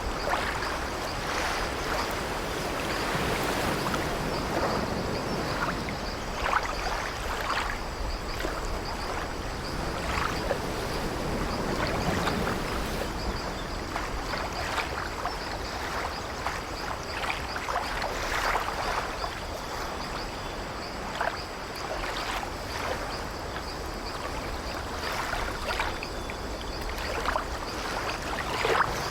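Waves washing against an old wooden ship, with short creaks and knocks of its timbers scattered through the steady sea noise.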